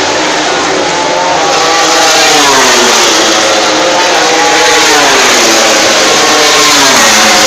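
Racing motorcycle engines revving, their pitch rising and falling again and again over a loud, steady rushing noise.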